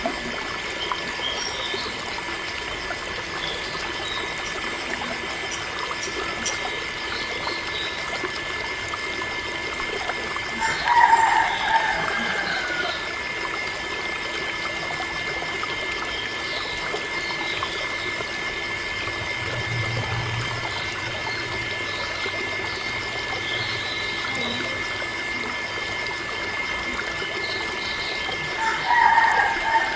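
Water trickling steadily, with the steady whine of a small electric water pump running. Twice a short, louder call falls in pitch.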